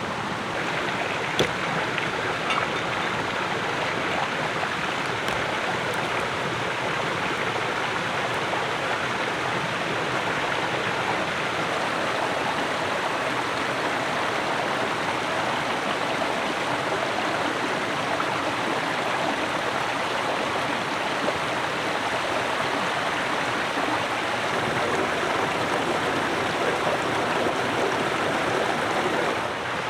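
Steady rush of flowing water, with a few faint clicks in the first few seconds.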